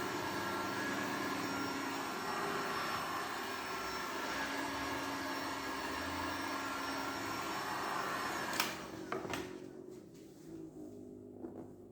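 A small electric fan-driven motor with a rush of air, like a vacuum cleaner or blower, running steadily, then switched off with a click about eight and a half seconds in. A few faint knocks follow.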